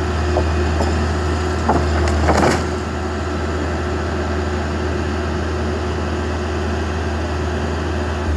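Backhoe engine running steadily with a low drone, with a brief crunch about two seconds in.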